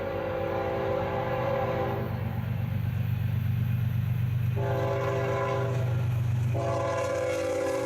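Diesel freight locomotive sounding its multi-chime air horn: a long chord that stops about two seconds in, then a second long blast from past halfway to the end, over the locomotive's steady low engine rumble.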